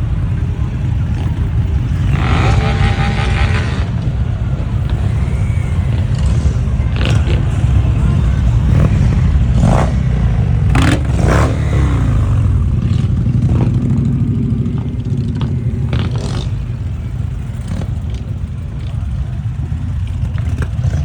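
Motorcycle engines running and revving. A steady pitched tone lasts about two seconds near the start, and several short sharp sounds come in the middle.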